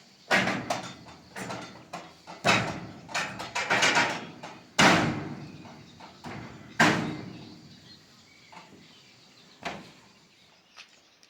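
A series of irregular sharp knocks and bangs, each trailing off briefly, the loudest about five seconds in; they thin out in the last few seconds.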